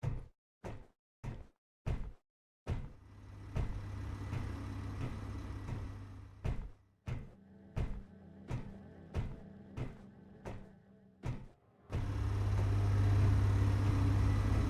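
A car engine with a series of sharp knocks about 0.6 s apart, then the engine running with a steady low hum from about three seconds in. The knocks return over the running sound midway, and near the end the engine runs steadily and louder.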